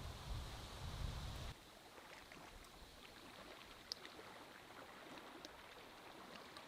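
Faint lakeside ambience of water lapping, with a low wind rumble on the microphone that cuts off suddenly about a second and a half in, then scattered small ticks.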